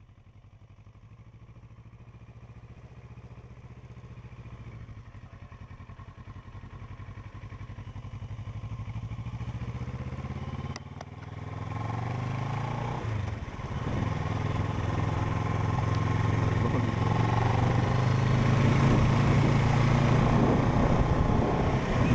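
Motorcycle engine running and growing steadily louder, with a short break about halfway through, after which the engine is louder and wind noise builds over it.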